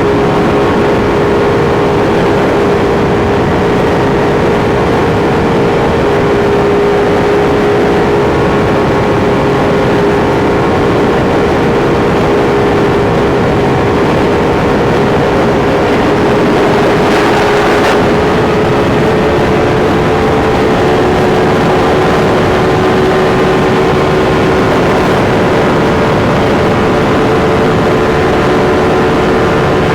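Sport motorcycle engine running at a steady cruising speed, its note holding almost level, under heavy wind and road noise. A brief whoosh of added hiss comes about halfway through.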